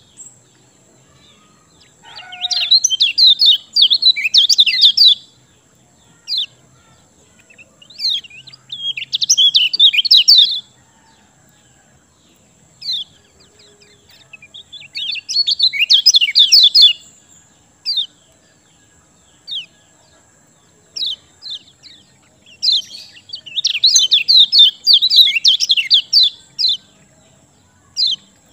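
A kecial kuning (yellow kecial) songbird in full song: four long bouts of rapid, high chattering warble, with single short high notes between the bouts.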